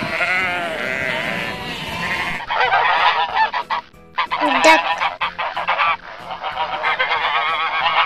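Sheep bleating for about the first two seconds. Then, after an abrupt change, a flock of geese honking with many calls overlapping.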